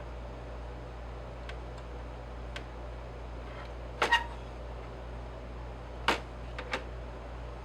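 A few sharp clicks and taps of small hard objects over a steady hiss: faint ones at first, a loud double click about four seconds in, and three more near the end.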